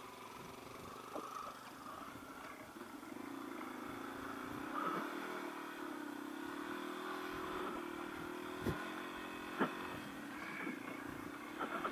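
Dual-sport motorcycle engine running at a steady riding speed, picking up a little about four seconds in, with two sharp knocks a second apart near the end.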